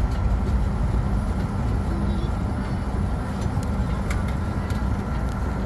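Steady low rumble of a parked Boeing 757's cabin air and ground power during boarding, with a faint steady tone above it and a few light clicks about four seconds in.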